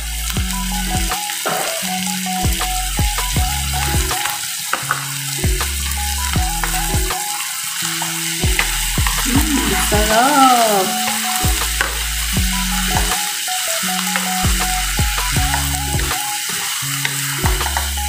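Mixed seafood sizzling in hot garlic butter in a wok just after it goes in, with a steady frying hiss and the scrape of a wooden spoon stirring it. Background music plays underneath.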